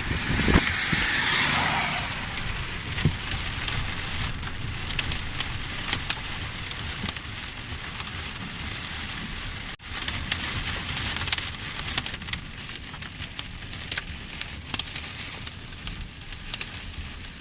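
Heavy rain pouring down, with many sharp ticks of drops striking hard surfaces. A louder rushing swell comes in the first two seconds, and the sound drops out for an instant about ten seconds in.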